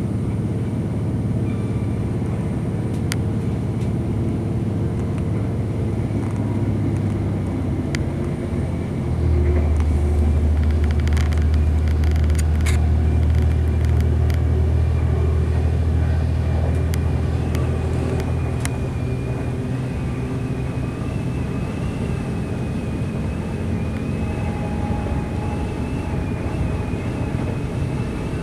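Class 185 diesel multiple unit running, heard from inside the carriage: a steady low drone of its Cummins diesel engine and wheels on the rails. The drone grows louder about nine seconds in and eases back after about eighteen seconds. A few sharp clicks come in the middle, and a faint high whine runs through the second half.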